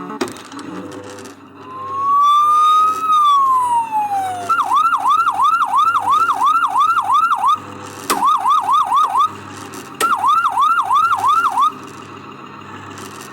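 Electronic fire-engine siren from a Falgas Fire Truck 4S kiddie ride's speaker, playing as the ride sets off: one slow rising and falling wail, then three runs of fast yelping sweeps, about three a second, with a click before the second and third runs.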